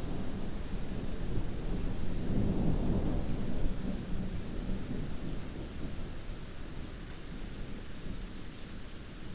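Heavy rain falling steadily, with a low rolling rumble of thunder that swells a couple of seconds in and then slowly dies away.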